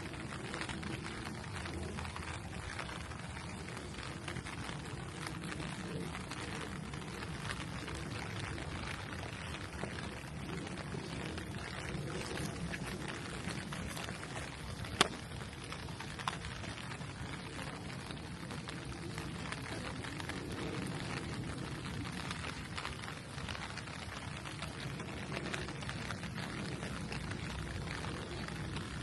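Steady rain falling, an even hiss with many small drop ticks. About halfway through come two sharp ticks, the first the loudest sound here.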